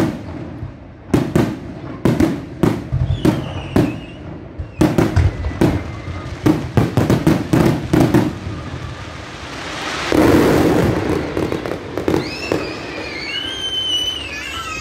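Fireworks going off at close range: a rapid, irregular string of sharp bangs, followed about ten seconds in by a loud swelling crackling hiss.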